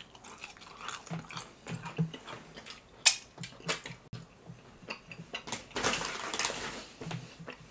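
Close-miked chewing and mouth sounds of someone eating fried chicken: scattered wet smacks and small clicks, with a longer breathy sound about six seconds in.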